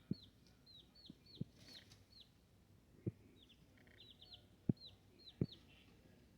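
Young chicks peeping: many short, high notes that each fall in pitch, repeated irregularly, with a few soft knocks among them.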